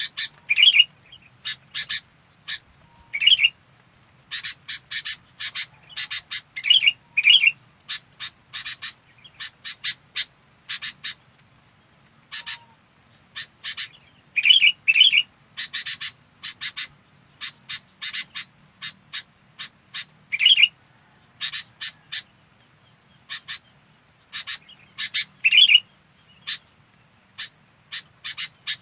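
Sooty-headed bulbul (local kutilang) calling: short, bright chirps and whistled notes in quick irregular clusters, repeated throughout. A faint steady high-pitched tone runs underneath.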